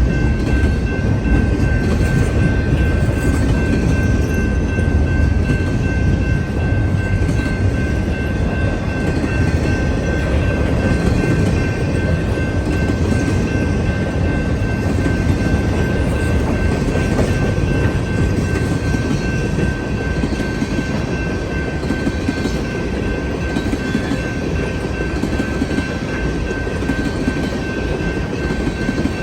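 CN freight train's cars rolling past on the rails: a continuous rumble with a steady high-pitched tone running over it.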